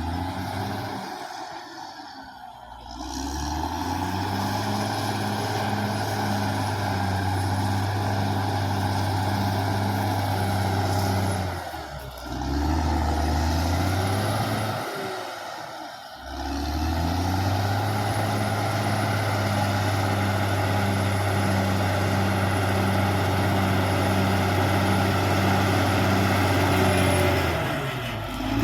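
Caterpillar D6R XL bulldozer's diesel engine running under load. It drops off and picks back up about four times as the machine works.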